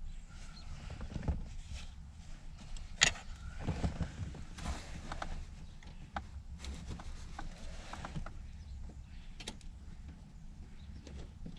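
Hands working around car interior trim while searching for a dropped clip: scattered clicks, taps and scraping rustles, with one sharp click about three seconds in.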